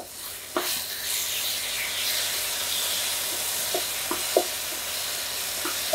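Vegetables and Schezwan sauce sizzling in a frying pan while a wooden spatula stirs them, with a few light taps of the spatula against the pan. The sizzle starts about half a second in.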